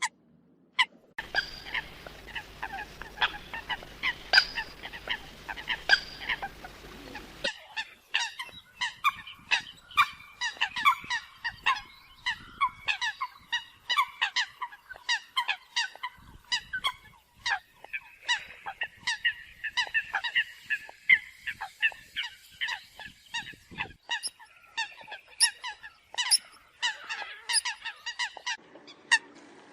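Eurasian coots calling: short, sharp calls in quick succession, several a second and overlapping as from more than one bird. A low hum and hiss under the first few seconds cut off abruptly, like a splice in the recording.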